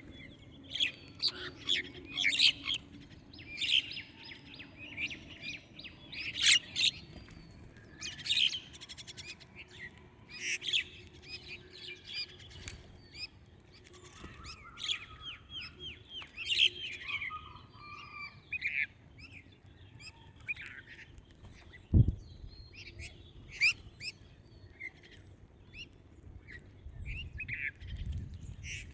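Small songbirds chirping and tweeting in short calls and quick trills, several overlapping, with one sharp low thump about two-thirds of the way through.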